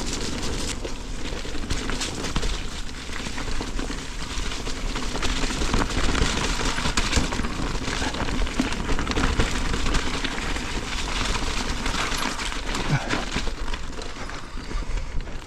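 Mountain bike rolling along a dirt trail: a steady crackling hiss of tyres over the ground, dense with small clicks and rattles from the bike.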